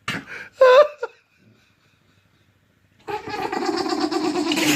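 An animal's weird vocal noises: a short pitched call just after the start, then a long harsh, noisy call of about a second and a half from about three seconds in.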